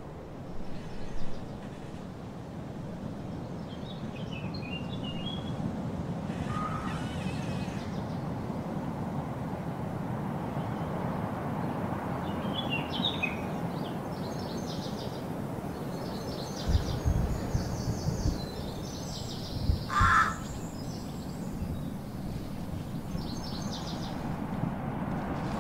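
Steady outdoor background noise with scattered short bird chirps, and a couple of brief low thumps in the second half.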